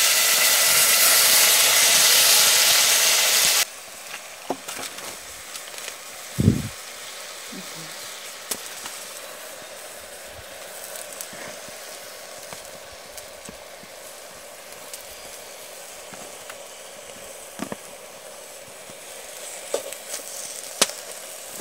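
A loud, steady sizzling hiss that cuts off suddenly about four seconds in. What follows is a much quieter background with scattered light clicks and knocks.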